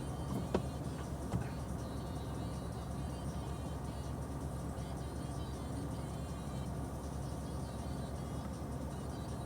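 Steady low rumble of a car moving slowly, with two short knocks in the first second and a half.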